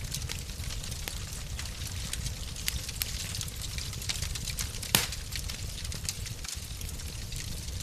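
Wood fire crackling in a fireplace: scattered sharp pops and snaps over a low steady rumble, with one louder pop about five seconds in.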